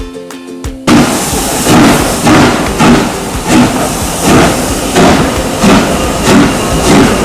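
Plucked-string music cuts off about a second in. A steam locomotive's exhaust beats take over: loud, regular chuffs, about three every two seconds, over a steady hiss.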